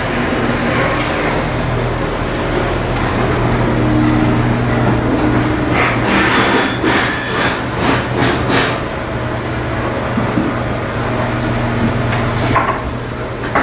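Steady machinery drone with a constant low hum, and a run of sharp knocks and clatters about six to nine seconds in.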